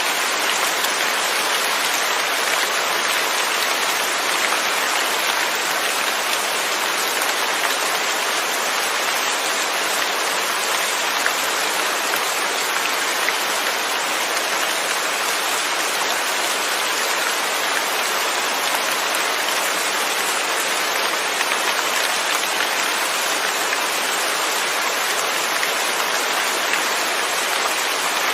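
Steady rain, falling evenly with no thunder.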